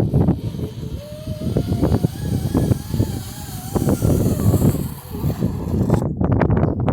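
Wind buffeting the microphone with an uneven, gusty rumble. A thin wavering tone sounds faintly over it from about a second in to about four seconds in.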